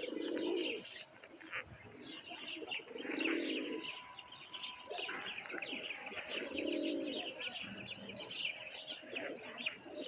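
Domestic pigeons cooing, a low coo about every three seconds, over constant high-pitched chirping of birds.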